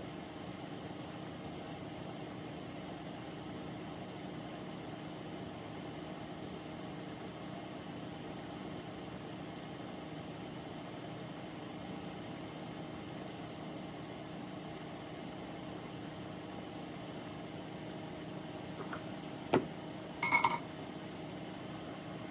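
Steady background hum with several held tones, then a sharp click and a brief ringing metallic clink shortly before the end.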